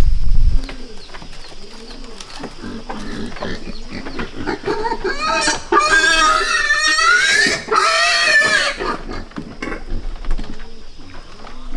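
A pig squealing: two long, high-pitched squeals about halfway through, with shorter low grunts before and after.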